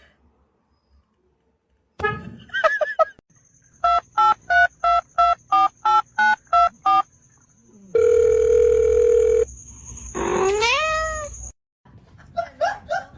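A run of about ten evenly spaced electronic beeps, like telephone keypad tones, then a steady electronic tone about a second and a half long. A cat-like cry rises and falls right after it.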